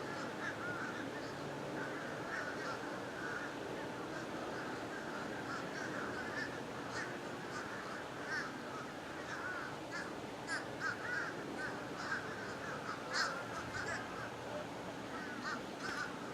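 A large flock of birds calling continuously overhead: a dense chatter of many short overlapping calls, with sharper high calls standing out here and there.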